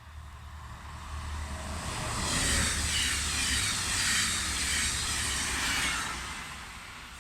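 A train passing by on the main line: its rolling noise swells over the first couple of seconds, holds for about four seconds, then fades away.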